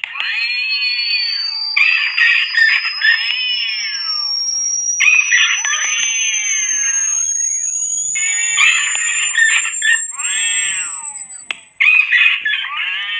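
A rat-repellent sound mix: cats yowling and screeching in about six bursts, over a steady high electronic tone that glides slowly upward in pitch.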